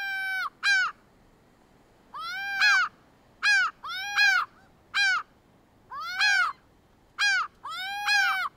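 Gull calling in a series of about nine loud, ringing calls, each rising and then falling in pitch, long calls alternating with short ones and short pauses between them.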